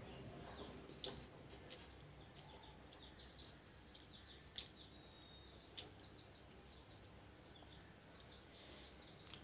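Near silence with faint small-bird chirps repeating in the background, and a few sharp clicks while someone eats by hand, the loudest about four and a half seconds in.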